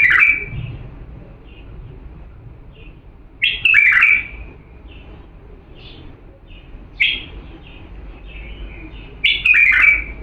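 Bulbul singing: four loud, short warbled phrases spaced about three seconds apart, with soft chirping notes between them.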